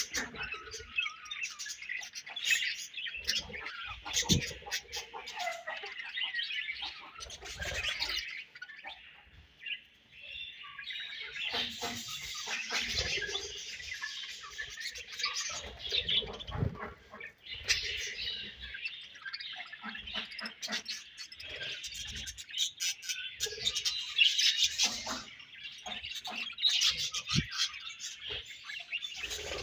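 A colony of budgerigars chirping together, many birds at once in dense overlapping calls, with a brief lull about ten seconds in.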